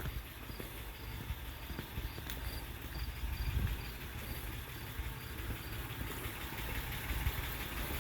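A vehicle engine idling with a low, steady rumble, and an insect chirping about three times a second that fades out about halfway through.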